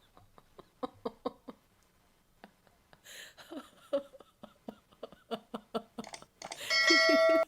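A woman laughing in runs of short, rhythmic breathy bursts, building to a loud, high, held squeal near the end.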